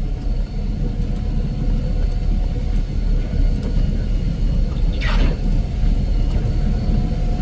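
Steady low rumble of a running snow-removal vehicle's engine, with a short hiss about five seconds in.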